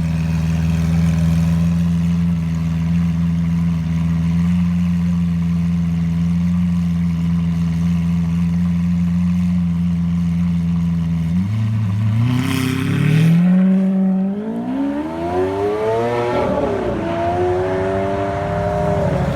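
2014 Lamborghini Aventador's V12 idling steadily with its exhaust open, then about eleven seconds in it revs and takes off, the pitch climbing and dropping back at each of several gear changes as the car pulls away.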